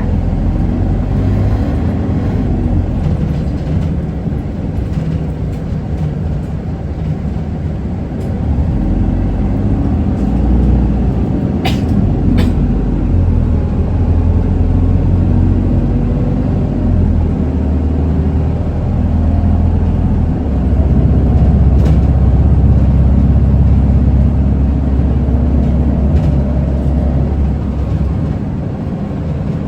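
Running sound inside an Isuzu Erga 2PG-LV290N3 city bus on the move: the four-cylinder diesel engine drones low under road noise, its note rising and falling as the bus pulls away and slows. Two sharp clicks come close together near the middle.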